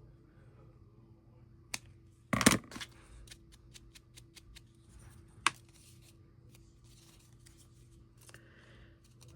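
Paper and craft tools handled on a work table: a short loud rasp about two and a half seconds in, a run of light clicks after it, a sharp tap about five and a half seconds in, and soft paper rustling near the end.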